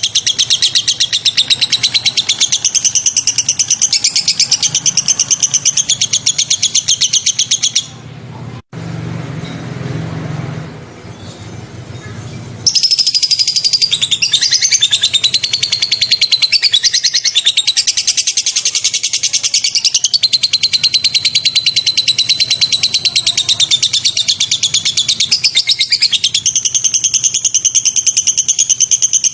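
Songbird masteran recording: rapid-fire, sharp chattering song repeated very fast and high-pitched. About eight seconds in, the song breaks off for roughly four seconds, leaving a quieter low hum with a sudden cut, then it comes back.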